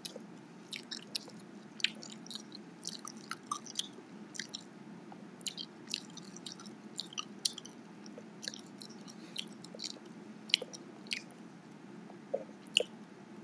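A person chewing food close to the microphone: irregular wet mouth clicks and smacks, several a second at times, over a low steady hum.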